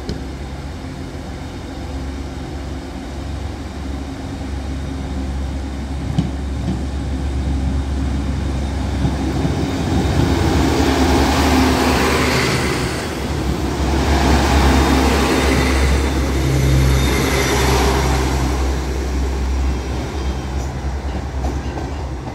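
Diesel multiple-unit passenger train passing close over a level crossing. Its engine and wheel rumble build from about eight seconds in, are loudest for several seconds around the middle, then ease off toward the end.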